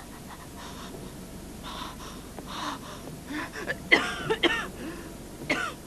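A person's heavy breathing and gasps, breathy at first, then sharper pitched gasps about four seconds in and again near the end, with a few light knocks in between.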